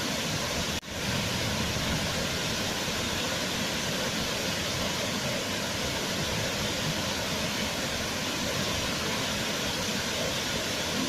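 Waterfall, a steady rush of falling water. About a second in it cuts out for an instant and fades back in.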